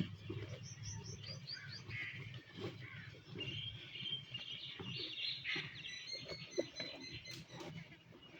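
Small birds chirping and twittering in quick repeated notes, over soft, irregular low crunching of a buffalo chewing grass.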